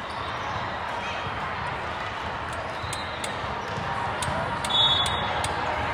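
Balls striking a hard court floor, heard as scattered sharp smacks echoing in a large sports hall over a steady crowd murmur. The loudest impact comes about five seconds in, with a brief high tone.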